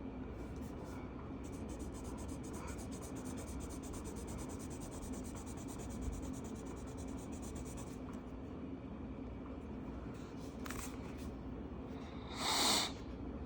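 Marker colouring on paper: quick back-and-forth strokes, fast and steady through the first half. Near the end comes a single short, louder scrape.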